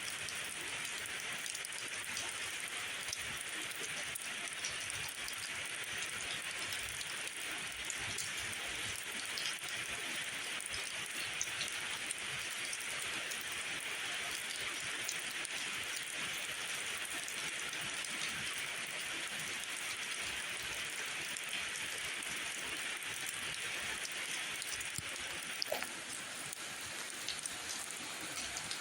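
Steady rain falling, an even hiss of many drops with scattered sharper drip ticks, and one brief louder tick near the end.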